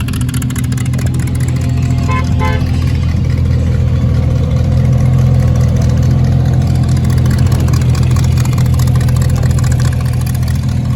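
A car engine idling loudly and steadily with a low, even note that grows a little louder about four seconds in.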